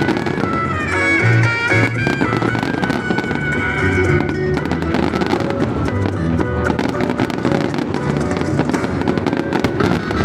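Fireworks crackling and popping over loud music, the crackle growing dense from about four seconds in.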